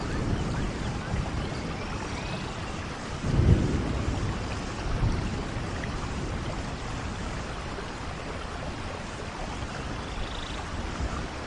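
Rainforest ambience of steady rain, with a low rumble of thunder swelling about three and a half seconds in and a smaller one shortly after.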